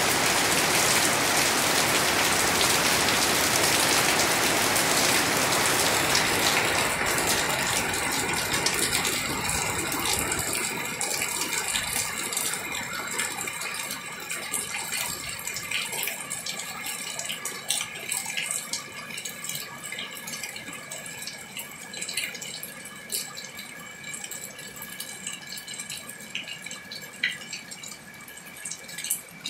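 Heavy rain falling, a dense steady hiss, easing off about ten seconds in to light rain with scattered separate drops and drips.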